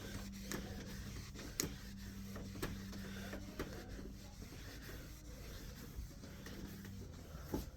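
Dry microfiber cloth wiping a TV screen: faint rubbing with a sharp tick about once a second, over a steady low hum that stops near the end.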